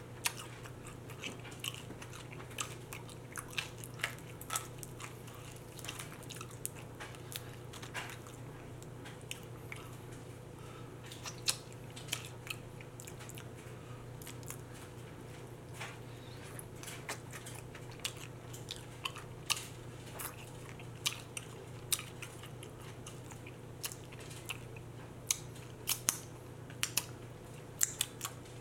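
A person chewing chicken wings close to the microphone, with scattered short, sharp smacks and clicks, over a steady low hum.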